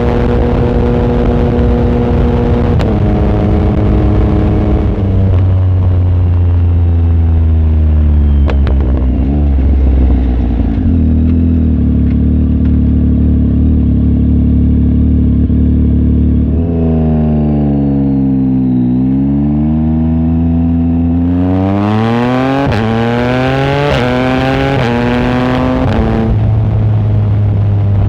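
Yamaha MT-09 SP's inline-three engine, its exhaust run without the baffle, while riding. The engine holds a steady pitch with a gear change a few seconds in, then falls away as it slows. Near the end it dips, then revs up hard, the pitch climbing steeply through two upshifts.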